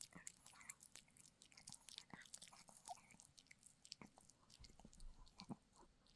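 Dog chewing a treat: faint, irregular clicks and bites of teeth on the chew, many times a second.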